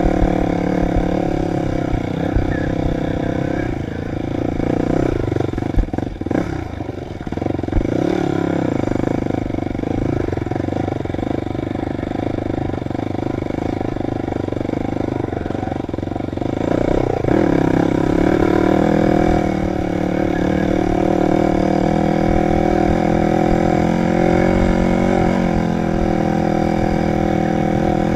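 Dirt bike engine running while being ridden. Its pitch and level drop and waver about six seconds in, then rise again about seventeen seconds in.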